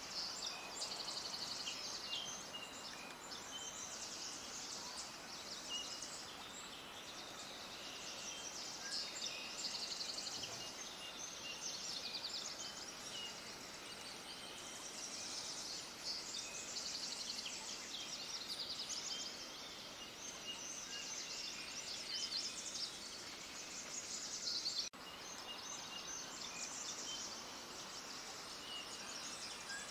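A chorus of many small birds chirping and twittering together in a dense, continuous flurry of rapid high notes, with a brief sudden break about 25 seconds in.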